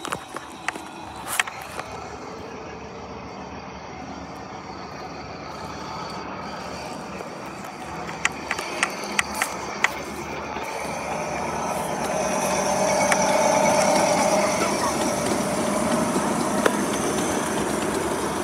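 Miniature railway passenger train approaching and running over a level crossing: its running noise swells from about ten seconds in and is loudest around fourteen seconds. A scatter of sharp clicks comes in the first half.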